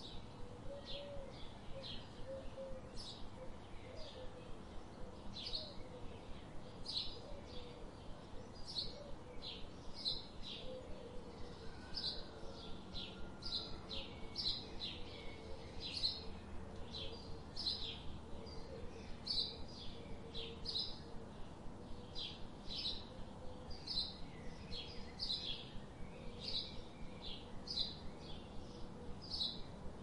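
A small bird chirping: short, high chirps repeated steadily, about one or two a second.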